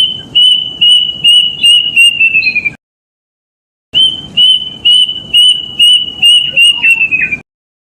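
Kedasih cuckoo singing, used as a lure call: two phrases of clear whistled notes repeated about three a second, each phrase dropping a little in pitch and quickening at its end. The first phrase ends near three seconds in, and the second starts about a second later.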